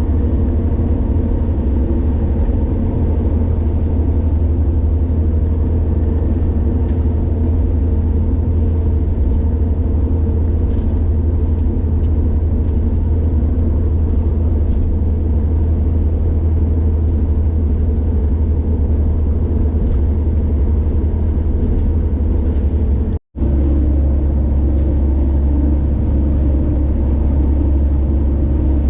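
Steady engine and road rumble of a car driving on a highway, a low even hum that breaks off for an instant about 23 seconds in.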